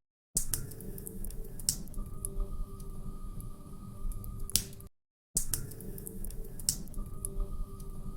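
Wood fire crackling, with sharp pops over a low rumble. The same five-second stretch of crackles plays twice as a loop, cutting to dead silence for a moment at the start and again about five seconds in.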